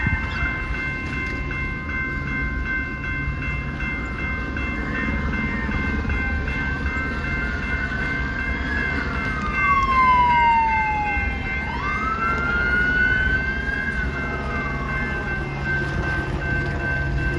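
Train rumbling along the tracks, with steady high tones held throughout. A police car siren wails from about seven seconds in, falling then rising in pitch, and fades out around fifteen seconds.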